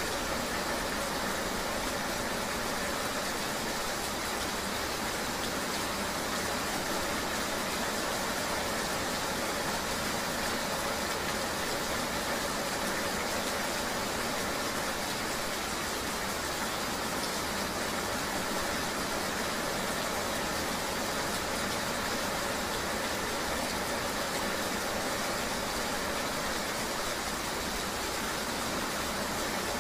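Steady rain-riding ambience: an even hiss of rain with a motor vehicle's engine running steadily beneath it, with no changes or distinct events.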